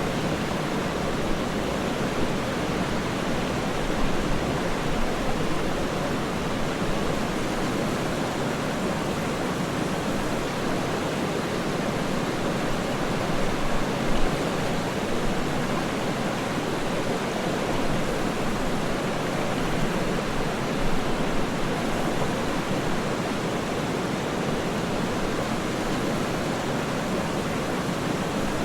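Waterfall rushing steadily, an even, unbroken wash of falling water with no distinct splashes or events, like a noise machine.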